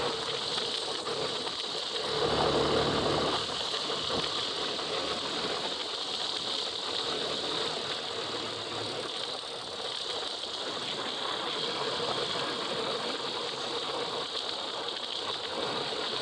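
Steady hiss of rain and wet road noise, with a vehicle engine swelling briefly about two seconds in.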